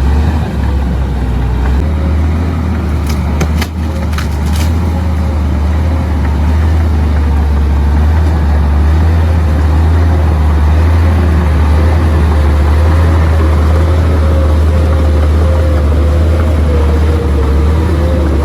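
Komatsu D58P bulldozer's diesel engine running steadily with a heavy low rumble and a steady whine over it, with a few sharp clicks about three to four and a half seconds in.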